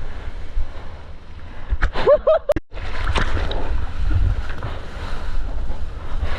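Water and wind rushing and buffeting a GoPro's microphone in the surf, a heavy low rumble, with a short shouted call about two seconds in and a sudden break just after.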